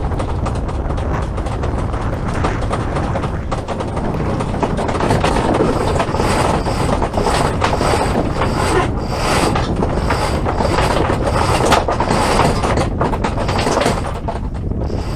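Steady wind and rushing noise aboard a small sailboat under sail, with a run of clicks and rattles from the gear on board. A faint high whistle comes and goes about once a second through the middle.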